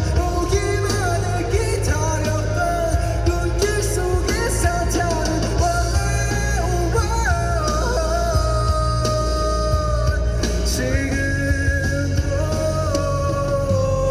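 Live rock band playing a song: drums, bass, electric guitars and keyboard, with a melody line held over a steady beat.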